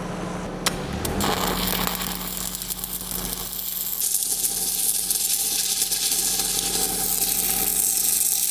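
Stick-welding arc crackling and hissing steadily as a downhill root pass is run around a pipe joint, starting about a second in after a short click.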